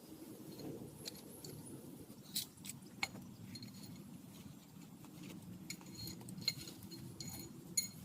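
Steady rain noise with scattered sharp light clinks and ticks, a few standing out louder.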